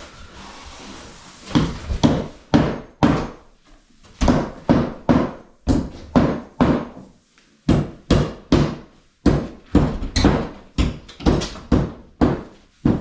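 A run of sharp striking blows with short ringing tails, about two to three a second, broken by brief pauses.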